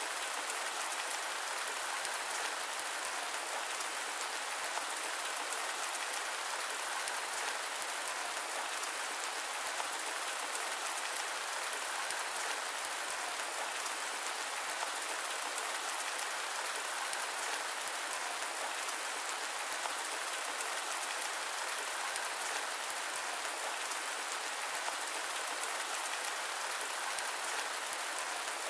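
Steady rain: an even hiss of falling water with a fine patter of drops, unchanging throughout.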